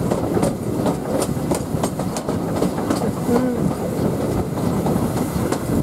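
Steam-hauled heritage train running along the line, a steady rumble with its wheels clicking over the rail joints at irregular intervals.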